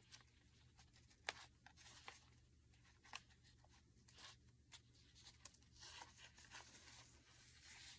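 Faint rustles and light ticks of paper pages and tags of a handmade junk journal being handled and turned, with one sharper tick about a second in.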